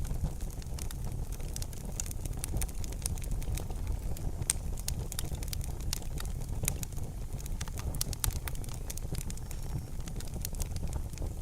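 Wood fire crackling in a fireplace: frequent irregular sharp snaps and pops over a steady low rumble of the burning fire.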